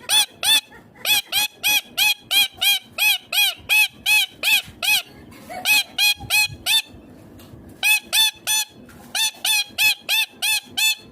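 Indian ringneck parakeet giving short, shrill calls in rapid repetition, about four a second. The calls come in runs, broken by brief pauses around the middle.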